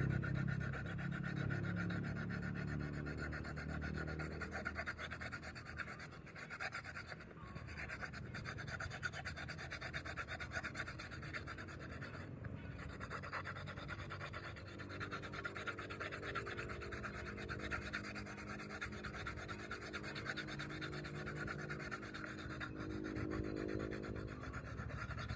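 Coarse sandpaper rubbed by hand in rapid back-and-forth strokes over a fiberglass-resin patch on a motorcycle fairing, levelling the repair.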